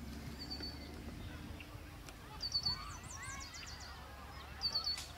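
A bird calling: three short runs of quick, high-pitched repeated notes, with a flurry of fast sliding notes between the second and third runs.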